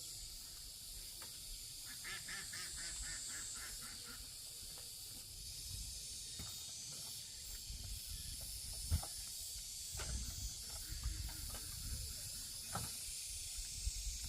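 Steady high insect chirring, broken about two seconds in by a short run of rapid pulsed calls. From about eight seconds on come scattered knocks and low thumps of handling or footsteps.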